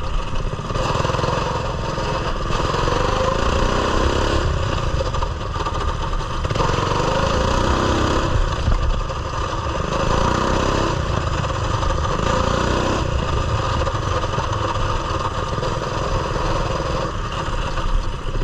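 Coleman mini bike's small single-cylinder engine running while ridden, its pitch rising and falling several times as the throttle is opened and eased off.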